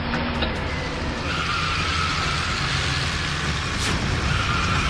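Car engine sound effect: an ignition start, then the engine running with a steady low hum and a high steady whine coming in about a second in.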